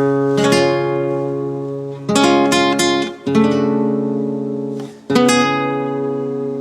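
Background music: acoustic guitar chords strummed, each left to ring and fade before the next comes about every one to two seconds.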